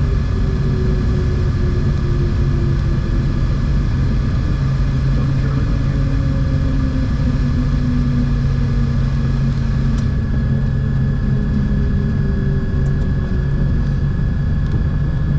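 The twin turbocharged six-cylinder piston engines and propellers of a Cessna T310R, heard from inside the cabin, running with a steady deep hum. A whining tone slides slowly down in pitch over the first half, as the power comes back.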